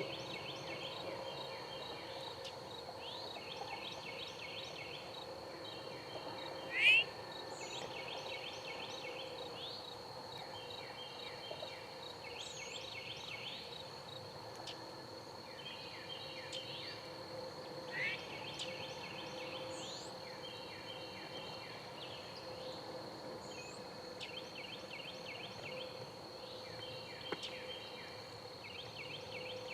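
Spring woodland birdsong: several small birds repeat short trilled songs every few seconds over a steady high-pitched insect drone. One louder, brief rising chirp comes about seven seconds in, and a fainter one around eighteen seconds.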